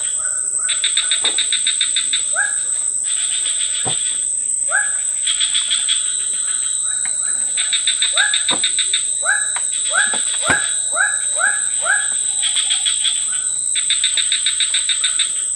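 Tropical forest insect chorus: a steady high-pitched drone with repeated bursts of rapid pulsed chirping, overlaid by many short rising calls and a few quick falling whistles from other animals.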